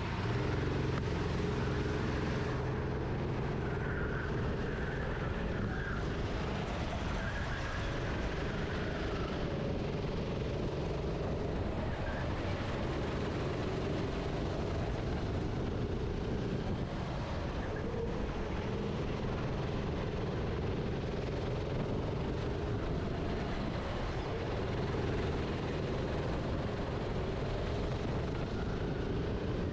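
Onboard sound of a racing kart's engine running hard through a lap. Its pitch rises and falls as the throttle opens and lifts through the corners.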